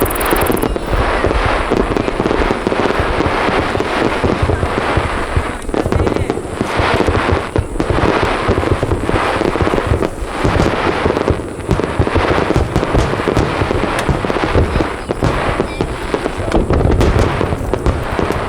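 Fireworks display in full barrage: large aerial shells bursting one on top of another in a dense, unbroken run of booms and crackles.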